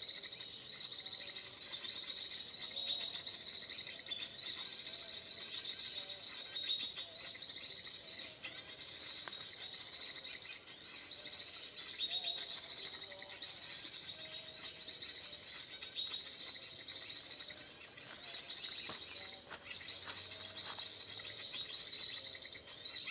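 Kutilang emas (bulbul) calls: bright chirping phrases repeated over and over in quick series, with a thin steady high tone underneath.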